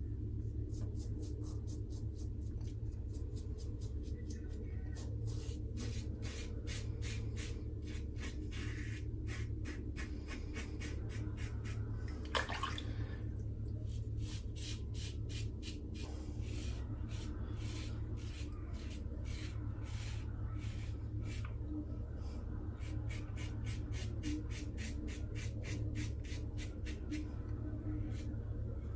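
Stainless steel double-edge safety razor scraping through lathered stubble in quick short strokes, a few a second, with a brief lull partway through, over a steady low hum. The strokes are a pass against the grain.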